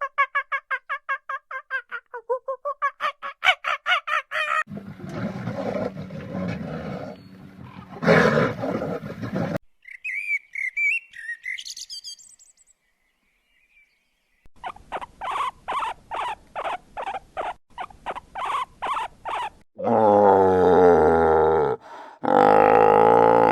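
A series of different animal calls, one after another: a fast run of pulsed calls, then noisier calls, a few chirping bird calls, a run of short evenly spaced calls, and two loud, long calls near the end.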